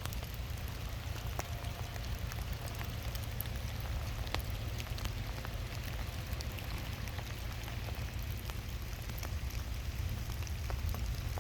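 Rain falling in woods: a steady hiss with many scattered drops ticking on surfaces, over a low steady rumble.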